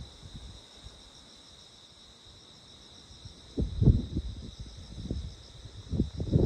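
Crickets chirping steadily in a high, pulsing chorus, with two short spells of low rumbling thuds about halfway through and near the end.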